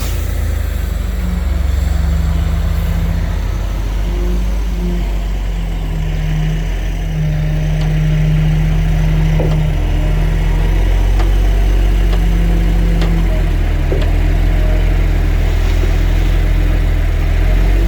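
Heavy diesel engine of earthmoving machinery running steadily under load, a deep rumble whose pitch shifts up and down in steps, with a few faint knocks.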